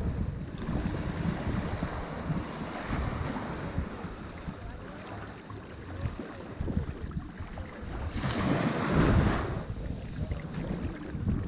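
Ocean waves breaking on a shore: a steady wash of surf that swells and fades, with one louder wave breaking about eight seconds in, and some wind rumble on the microphone.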